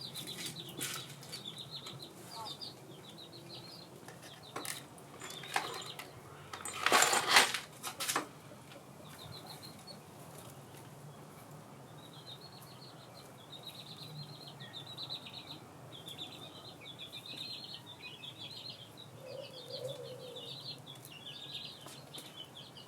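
Small birds chirping in repeated trills, with a few sharp metallic clanks and knocks from parts and tools being handled. The loudest is a short clatter about seven seconds in.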